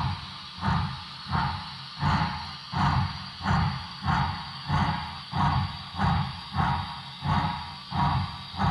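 Paragon 3 sound decoder in an HO-scale Broadway Limited Baldwin 2-8-0 Consolidation model steam locomotive playing slow, evenly spaced steam chuffs, about one and a half a second, through the model's small speaker as the engine creeps along at low speed.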